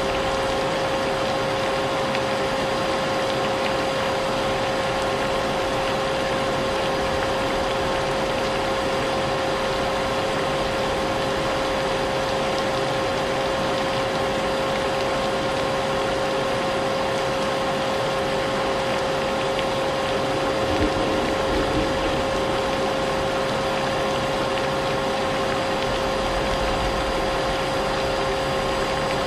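Vacuum cleaner running steadily, its motor whine holding one pitch, mixed with a steady hiss of rain.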